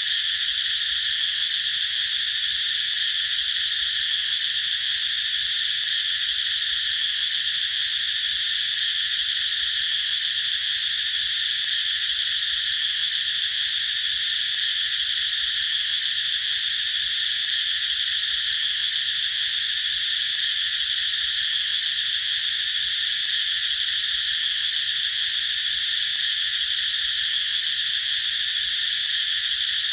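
Cicadas singing in chorus: a continuous high-pitched buzzing drone that stays steady throughout.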